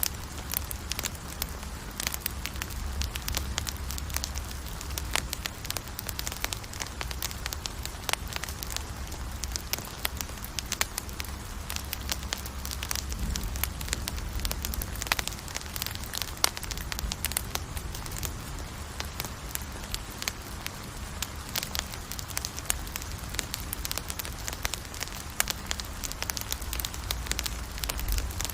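Wood campfire burning, with many sharp pops and crackles scattered throughout over a low rumble of the flames.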